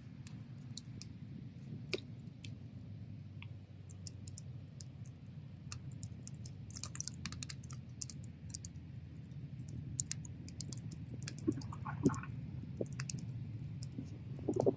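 Wood bonfire crackling, with irregular sharp pops and snaps over a steady low rumble of the flames.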